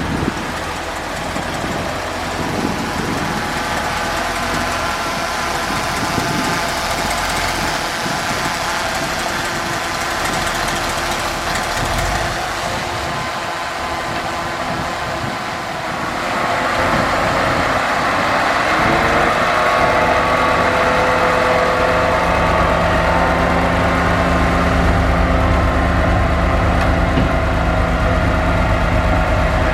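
Large bulldozer's diesel engine running while pushing dirt. About sixteen seconds in it grows louder and its pitch rises as it revs up, then holds steady at the higher level.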